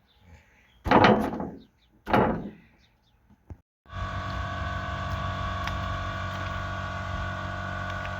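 Two loud thuds a little over a second apart, each trailing off quickly, like a door or heavy panel banging shut; then, after a brief cut to silence, a steady machine hum with several held tones.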